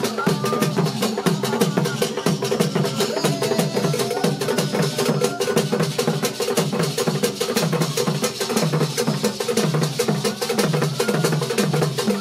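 Drum music with fast, evenly spaced strokes and clicking, wood-block-like taps in a steady repeating pattern.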